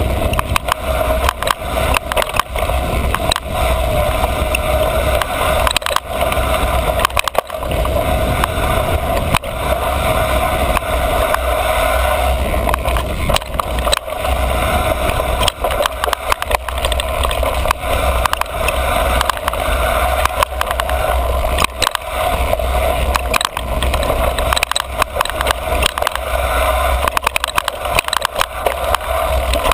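Niner MCR mountain bike riding fast on a dirt singletrack trail: a continuous rush of wind on the microphone and tyre noise, with frequent clicks and knocks as the bike rattles over bumps.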